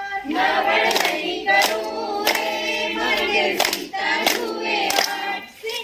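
A garba song sung by a group of voices, with hand claps keeping the beat at regular intervals.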